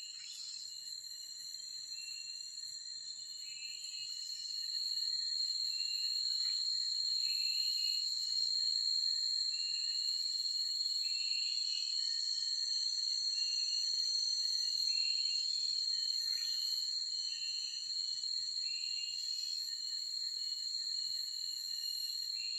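Forest ambience: a steady, high-pitched insect drone, with a bird repeating a short chirping phrase every couple of seconds. A few quick high ticks sound in the first few seconds.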